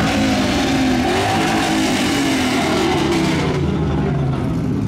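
Vehicle engine revving, its pitch rising and falling, then easing lower near the end.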